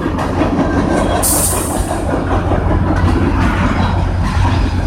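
CN freight train passing at speed: a steady rumble of wheels on rail with clickety-clack, and a brief high hiss about a second in.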